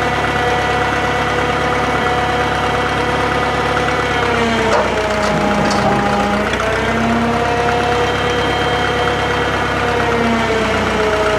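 Drott 85RM2 crane's engine running steadily. Several times from about four seconds in, its pitch dips and recovers as the hydraulics take the load of dragging a heavy furnace, and a low hum comes and goes.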